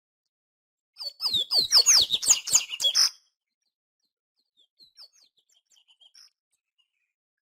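A papa-capim seedeater singing: one loud, rapid phrase of quick whistled notes lasting about two seconds, followed a couple of seconds later by a few faint chirps.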